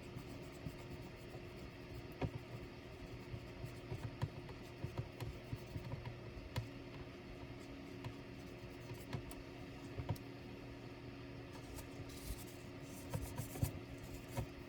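Scattered light clicks and taps from hands working on an ASUS K3605Z laptop, over a steady low hum. The clicks come at irregular spacing and bunch together near the end.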